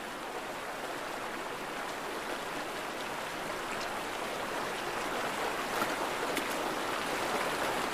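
Stream water running steadily, with a few faint clicks partway through.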